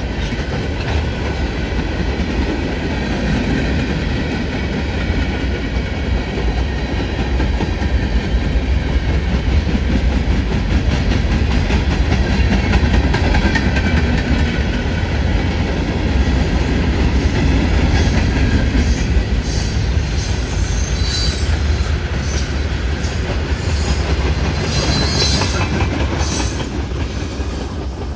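Freight cars of a mixed manifest train rolling past with a steady rumble and wheels clicking over rail joints. In the second half, high-pitched wheel squeal comes and goes.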